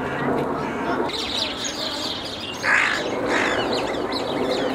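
Birds chirping and twittering outdoors, with two louder calls close together about three seconds in.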